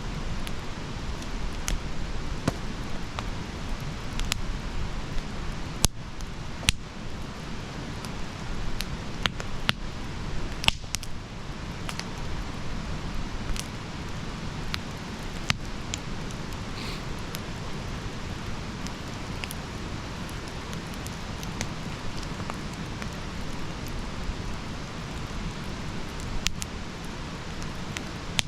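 Campfire crackling: a steady low rumble of burning wood dotted with irregular sharp pops and snaps, the loudest about six and eleven seconds in.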